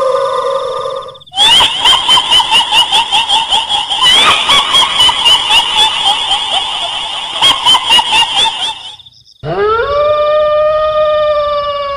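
Horror sound effect of a long, drawn-out wailing howl, then a fast run of repeated high-pitched cackles for about seven seconds, then another long wail, over a faint steady high whine.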